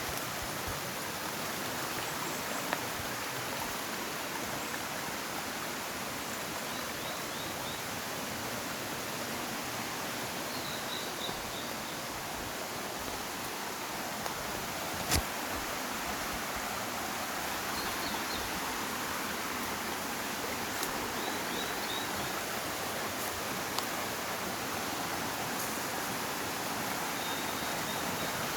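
Mountain stream flowing steadily, an even rushing sound. Faint high bird chirps come in short runs several times, and a few sharp clicks stand out, the loudest about halfway through.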